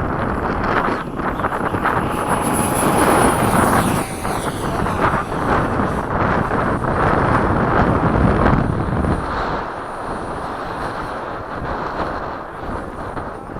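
70 mm electric ducted fan of a radio-controlled F/A-18 model jet whining in flight, a high thin tone that is strongest a few seconds in and then fades. Heavy wind buffets the microphone throughout.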